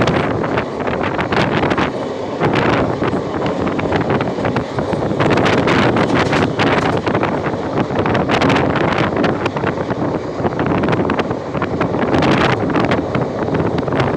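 Wind buffeting the microphone over the steady rumble of a moving train, with frequent clattering knocks.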